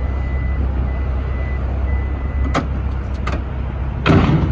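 Pickup truck's power tailgate closing after its button is pushed: a high warning beep repeats about once a second and stops after about two and a half seconds, followed by a few clicks and a short loud thump near the end as it latches, over the steady low rumble of the idling truck.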